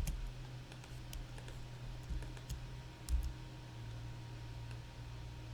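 Scattered clicks of a computer keyboard and mouse, single keys and buttons pressed a few at a time, mostly in the first three seconds, over a steady low hum.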